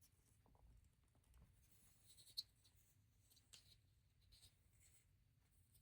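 Faint scraping and clicking of plastic LEGO pieces being handled and pressed, as a piece is forced on that will not seat properly. A sharp small click comes about two and a half seconds in, and another about a second later.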